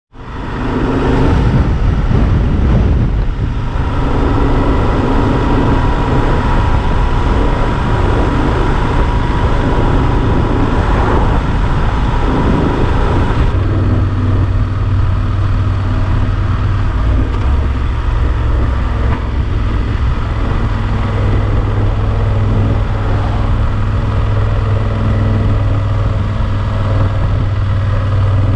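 Yamaha Super Ténéré XT1200Z's parallel-twin engine running, with a steady low hum under wind and road hiss. About halfway through the hiss drops away and the low engine hum carries on steadily.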